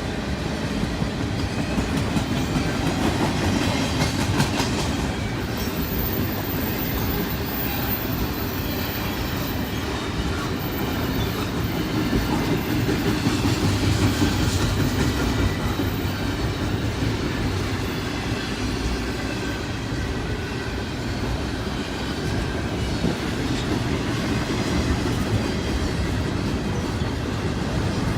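Double-stack intermodal freight train rolling past: steady rumble of steel wheels and cars, with a clickety-clack over the rail joints.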